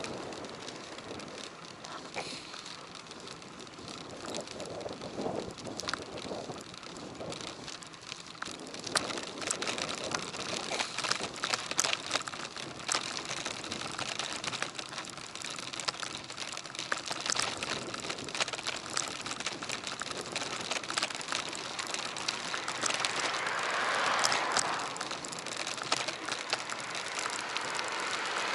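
Bicycle ride heard through a bike-mounted action camera: steady tyre and road noise with many small clicks and rattles from bumps, and a swell of rushing noise twice near the end.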